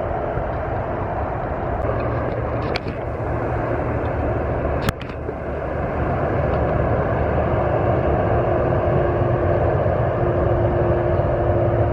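Heavy truck running steadily, engine and road noise, with a short click just before three seconds and a sharper click about five seconds in.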